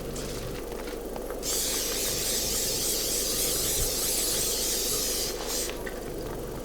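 Food sizzling in a hot pan, with a louder, sharper hiss from about a second and a half in until near the end.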